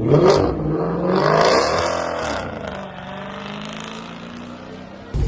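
A car accelerating hard past, its engine note rising and then dropping as it goes by and fades away.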